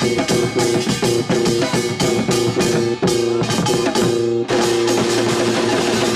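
Korean traditional-fusion ensemble music: fast, dense drum and percussion strokes over a held high note. About four and a half seconds in, the percussion ends on a strike and the ensemble holds a sustained chord.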